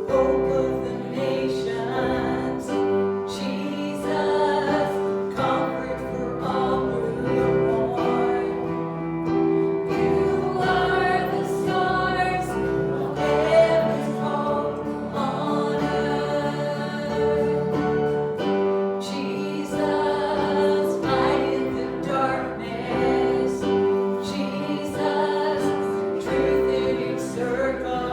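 A group of voices singing a hymn together with instrumental accompaniment, held notes over a steady bass line.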